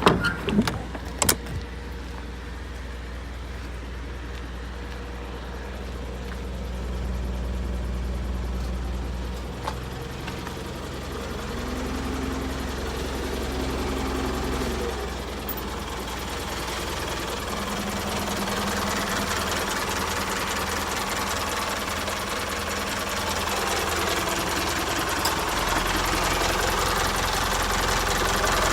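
Isuzu Elf truck engine running. A few sharp knocks come in the first second or so, then it idles steadily, its level and pitch swelling and easing a few times.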